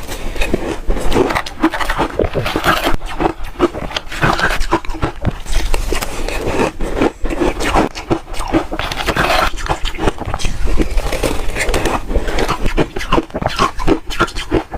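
Hard refrozen ice being bitten and chewed close up: a dense, irregular run of loud crunches and cracks.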